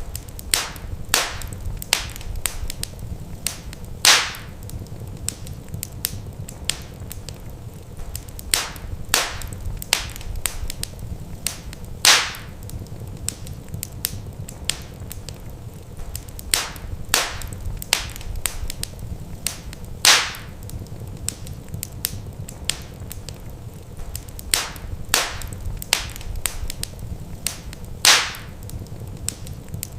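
Wood fire crackling in a fireplace: irregular sharp snaps and pops over a steady low rumble, with the loudest pops coming about every eight seconds.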